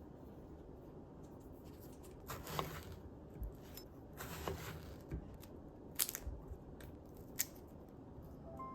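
Scattered clicks and light knocks of kitchen work, the sharpest about six and seven and a half seconds in.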